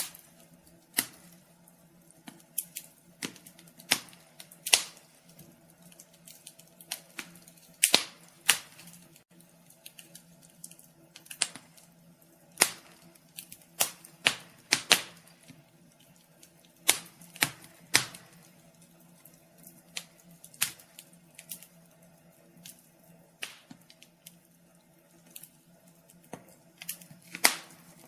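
Wood fire crackling in a fireplace: irregular sharp pops and snaps, a few every second or two, some much louder than others, over a faint steady hum.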